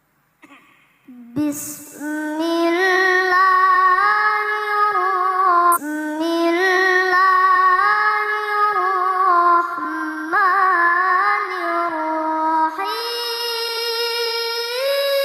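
A child qari chanting Qur'anic recitation in long, held, ornamented melodic phrases, starting about a second in, with short breaks for breath between phrases.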